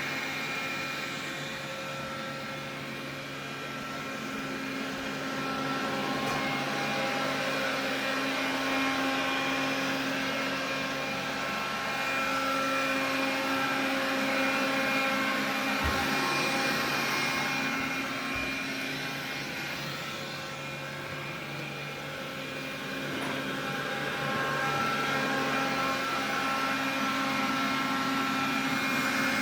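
Xiaomi vacuum cleaner running, a steady motor whine made of several fixed tones whose loudness slowly swells and fades. This is the extraneous noise from the cleaner that the owner is recording.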